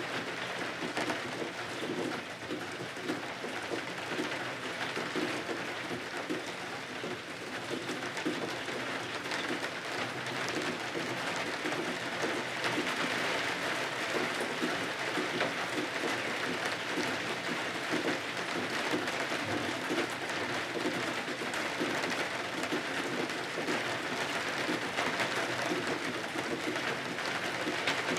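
Steady rain falling, a dense even patter that grows a little louder about halfway through.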